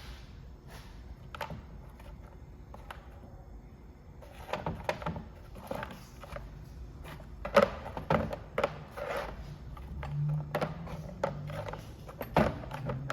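Irregular knocks and clinks of tools and parts being handled, sparse at first and busier from about four seconds in, with two sharper knocks standing out.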